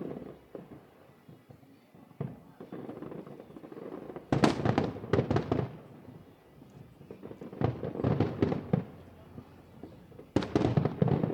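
Aerial fireworks bursting in rapid crackling volleys of many sharp bangs. Three loud clusters come about three seconds apart, with lighter pops between them.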